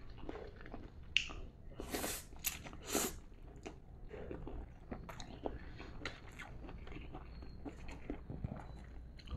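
A person chewing a mouthful of fried instant noodles with crunchy, half-raw bitter melon slices, close to the mouth. Soft wet chewing clicks, with a few louder noisy mouth sounds about two and three seconds in.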